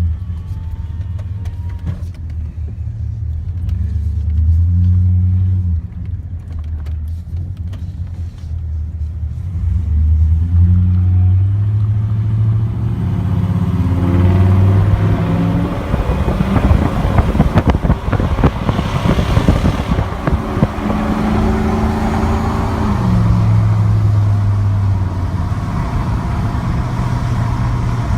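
Chevrolet Silverado pickup with a dual performance exhaust, its engine note rising and falling as it drives, then building into a loud hard acceleration through the middle before easing back to a lower steady run.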